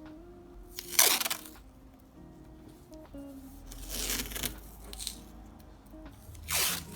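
Three brief papery swishes while painting on paper, the first about a second in the loudest and the second, around four seconds in, the longest, over soft background music.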